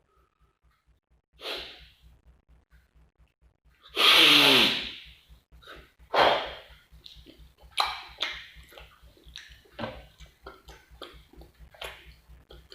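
A man's non-speech vocal sounds: sneeze-like bursts and breaths. The loudest burst comes about four seconds in, followed by many short bursts, over a faint, fast low pulse.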